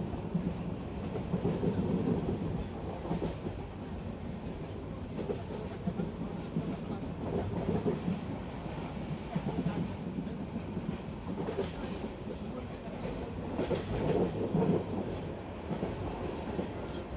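Moving passenger train heard from inside a carriage: a steady rumble of wheels on the track with occasional rail-joint clatter, swelling louder about two seconds in and again near the end.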